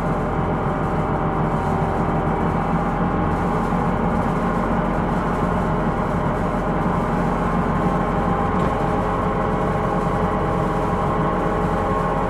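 Hino Rainbow II non-step bus heard from inside while under way: steady engine and drivetrain running noise with a ringing, whining tone over it, the abnormal noise (異音) the bus is known for. The whine grows a little stronger in the second half.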